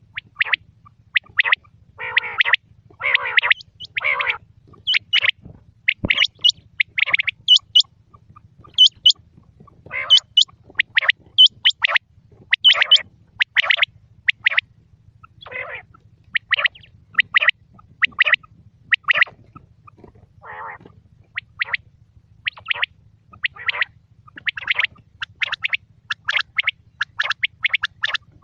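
Quail calling over and over in short, sharp notes that come in quick clusters, with a faint steady low hum underneath.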